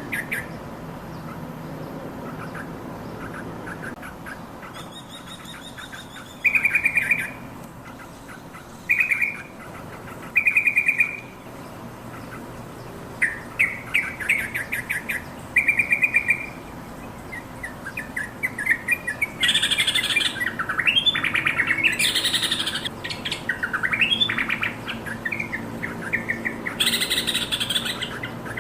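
Yellow-vented bulbul song: short, quick, bubbly phrases repeated every second or two, turning into a busier, louder run of rising and falling notes with a few harsher chattering bursts in the second half.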